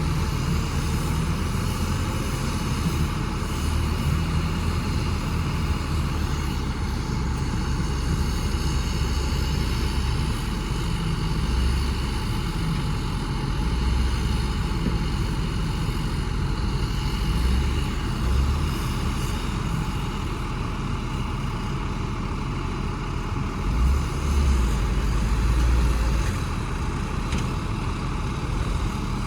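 Heavy diesel engine of earthmoving machinery running steadily with a low rumble, swelling louder for a couple of seconds near the end.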